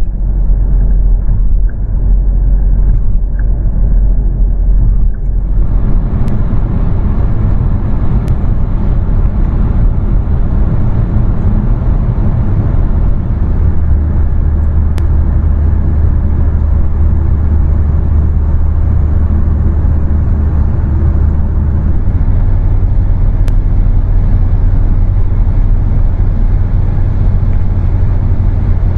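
Renault Mégane R.S.'s 1.8-litre turbocharged four-cylinder running at a steady, unchanging speed with no revving, a loud low drone. About five seconds in the sound brightens, and from about fourteen seconds in a deeper hum takes over.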